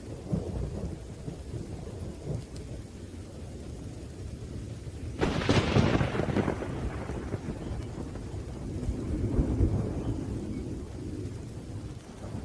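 Thunderstorm with rain: thunder rumbles low and continuously. A sharp thunderclap breaks about five seconds in and fades over a second or two. A second swell of rolling thunder comes near the end.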